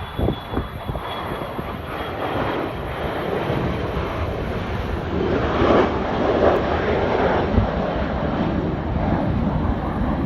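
Aircraft engine noise: a continuous rushing sound that swells louder about five seconds in and stays up.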